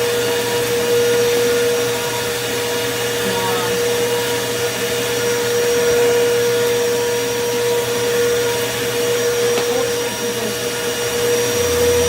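Motor of a Bissell PowerForce bagless upright vacuum running steadily with a constant whine over an airy rush, though it has no suction at all. A lower hum joins in near the end.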